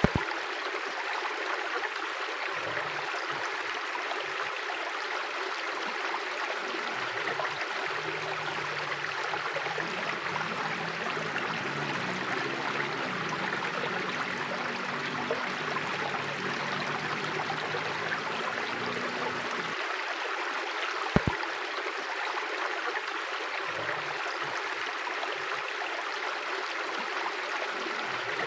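Steady rushing of a flowing river, an even wash of water noise with no pauses. A faint low hum comes in for several seconds in the middle, and a single sharp click sounds about three quarters of the way through.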